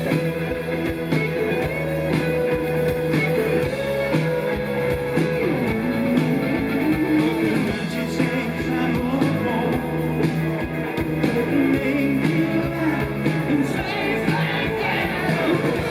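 Live rock band playing, with electric guitar carrying the melody and singing over it, as heard from within the audience.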